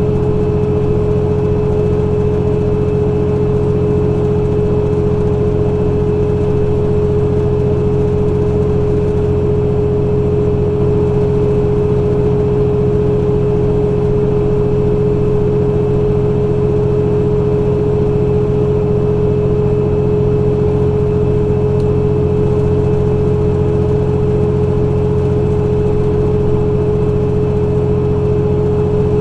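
Semi truck's diesel engine and road noise heard from inside the cab, running at a steady cruise with a constant whine over the low rumble.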